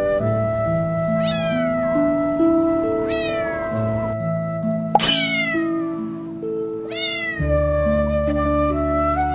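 A cat meowing four times, about two seconds apart, each call falling in pitch, the one about halfway through the loudest. Background music of slow, held notes plays under it.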